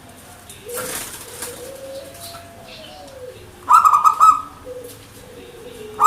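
Zebra dove (perkutut) cooing: a low, wavering coo, then a loud, rapid run of staccato notes a little past halfway, with another run beginning at the very end. A brief rustle, like wings, sounds about a second in.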